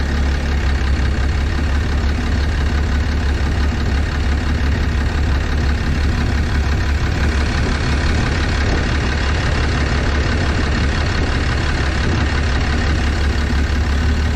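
6.7-litre Cummins inline-six turbodiesel idling steadily with the number 5 injector cut out for a cylinder kill test, so it is running on five cylinders.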